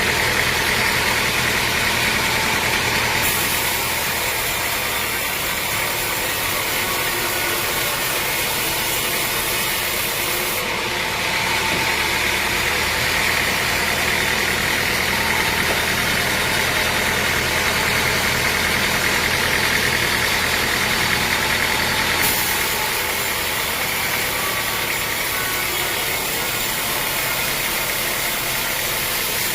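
Sawmill machinery running steadily, with a loud, constant mechanical noise. The upper hiss changes abruptly three times.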